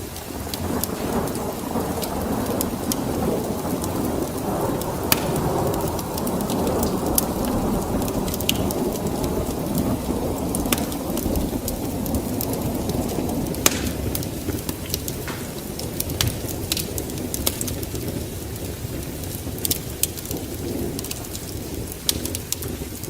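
A long roll of thunder over steady rain: the rumble builds about a second in, holds, and fades away after about thirteen seconds, with scattered sharp pops throughout.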